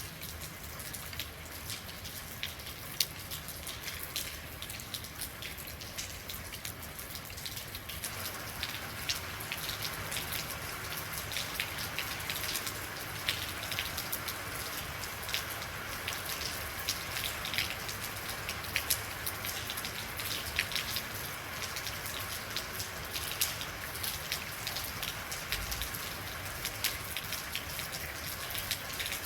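Real rain falling steadily, with many individual drops ticking on a hard surface over an even hiss. About eight seconds in it grows heavier and fuller.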